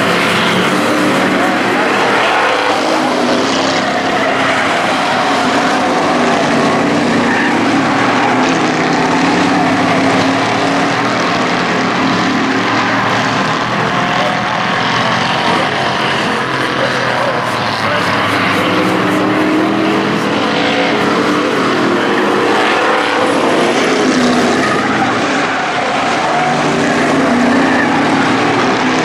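Engines of a pack of hobby-class race trucks running hard around an oval. Their pitch rises and falls over and over as trucks pass through the corner.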